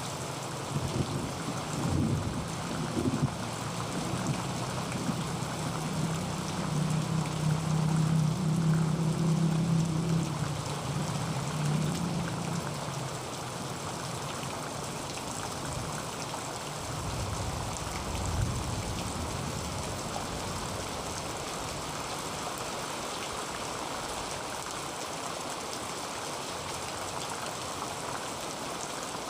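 Heavy rain drumming steadily on a tin roof, an even hiss throughout. A low rumble swells under it over the first dozen seconds, loudest around eight to ten seconds in, and returns briefly near the eighteen-second mark.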